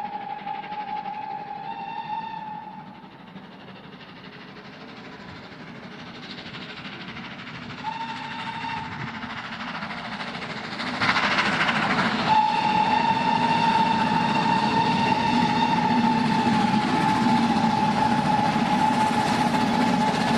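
Steam locomotive whistle: two short toots, then one long blast of about eight seconds. Under it the train's running noise grows louder as it draws near, with a sudden rush of noise just before the long blast.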